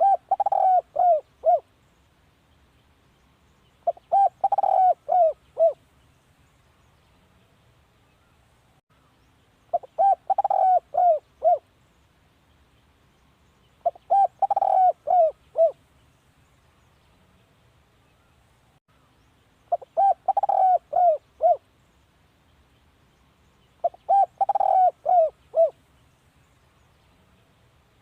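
Spotted dove cooing: six calls, each a quick run of about five coos, repeated every four to six seconds. This is the male's advertising coo used to call in other doves.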